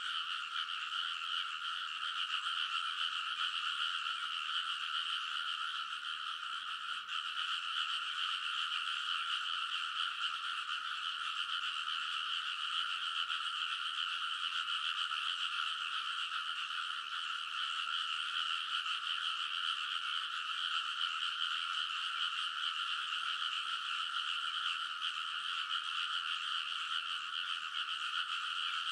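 Many rice-paddy frogs calling together in a dense, steady chorus, the calls overlapping into one continuous din with no break.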